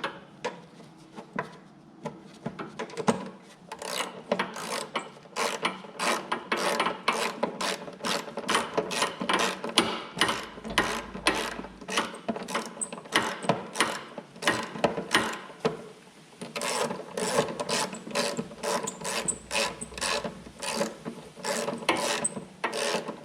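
Ratchet wrench clicking in quick back-and-forth strokes as a bolt on the snow thrower's cover is turned in. Long runs of rapid clicks start about three seconds in.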